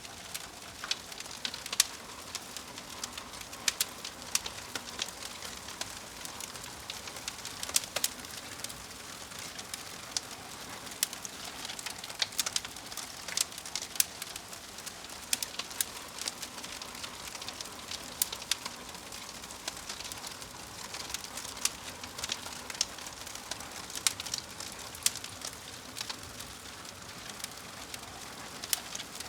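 Wood fire burning with a steady hiss and frequent irregular crackles and sharp pops.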